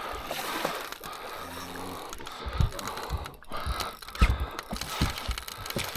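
Fishing reel being worked while a large sturgeon pulls on the line, with mechanical clicking and several thumps, the loudest about four seconds in.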